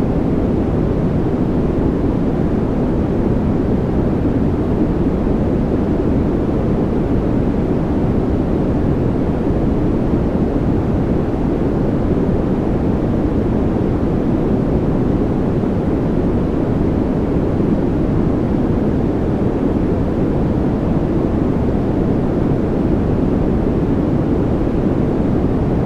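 Steady white noise, deep and even, with no changes.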